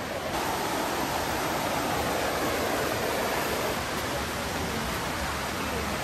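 Rushing river water: a steady, even roar of flowing water.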